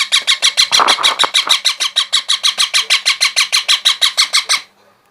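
Baby parrot's food-begging calls: a rapid, even run of harsh chirps, about ten a second, that stops abruptly near the end.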